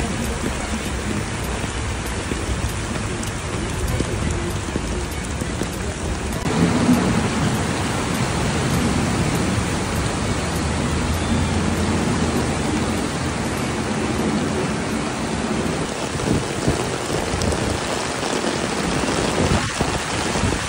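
Heavy thunderstorm downpour: a steady hiss of rain with water rushing over a flooded street. About six seconds in it becomes louder and fuller.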